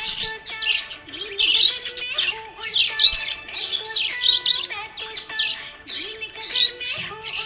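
Small pet parrots chirping and squawking in quick, overlapping calls without a break.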